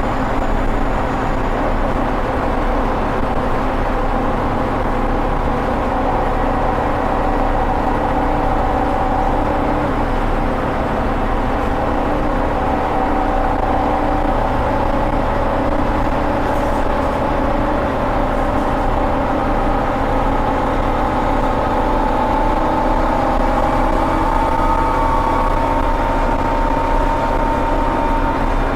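Scania Omnicity bus's diesel engine under load, heard from the rear seats, running steadily with its pitch slowly rising through the second half as the bus gathers speed.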